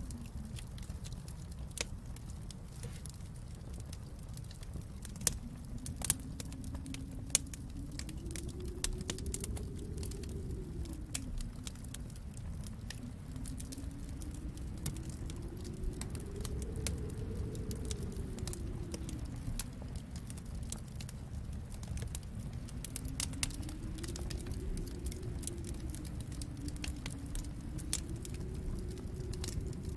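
Wood fire crackling, with irregular sharp pops and clicks over a steady low rumble. Beneath it a low tone slowly rises and falls in pitch several times.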